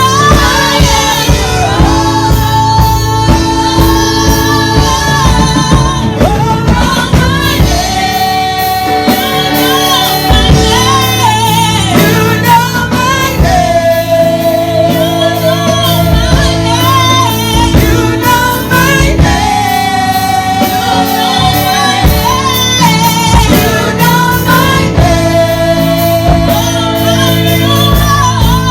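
Church worship music: a singer holding long notes, each lasting several seconds, over instrumental accompaniment with a steady bass.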